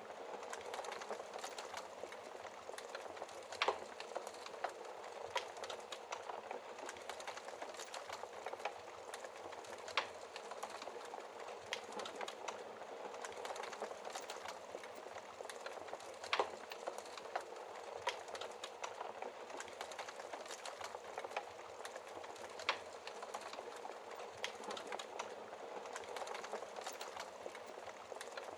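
Wood fire burning in a fireplace: a steady hiss of flames with constant small crackles and a few louder pops.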